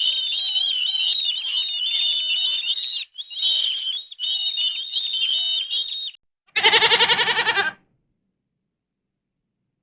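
Many small birds chirping shrilly together, breaking off briefly twice, for about six seconds. Then a single quavering goat bleat about seven seconds in.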